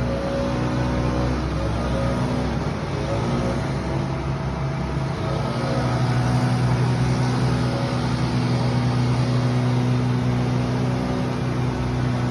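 An engine running: its speed shifts up and down for a few seconds about two seconds in, then holds steady and a little louder.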